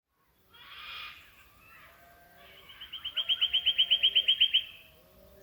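Birds of the early-morning Australian bush calling: a short harsh call about half a second in, then a rapid, evenly spaced run of about fifteen high notes, about seven a second, from about two and a half seconds to four and a half. Softer, lower calls sound underneath.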